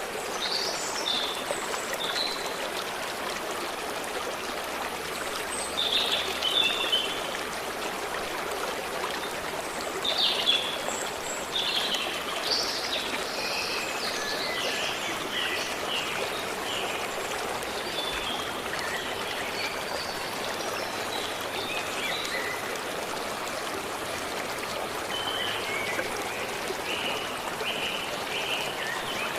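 A forest stream running steadily, with small birds singing over it in short bright phrases, one bird repeating a run of even notes near the end.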